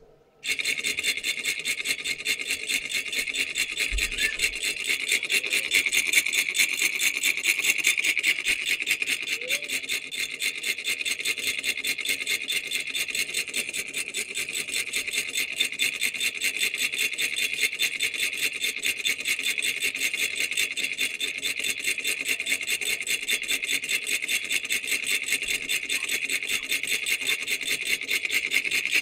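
Solenoid engine running, a rapid, even rattle of clicks that starts suddenly about half a second in and keeps a steady pace.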